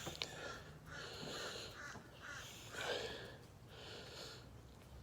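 Harsh bird calls repeated about once a second.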